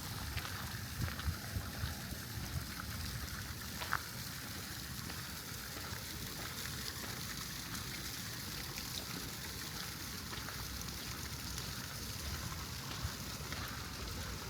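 Steady rain falling, an even hiss with a few sharp drop ticks in the first few seconds.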